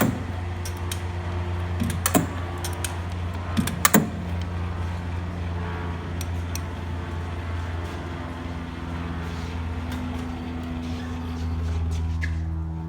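Hardinge DSM 59 turret lathe running with a steady hum, with sharp metallic clacks about two and four seconds in as the turret is drawn back and indexes round.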